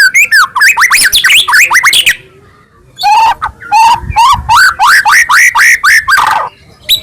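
White-rumped shama (murai batu) singing a fast, loud run of whistled notes, each sweeping up or down, about seven a second. The song breaks off for about a second roughly two seconds in, then resumes and ends in a falling sweep near the end.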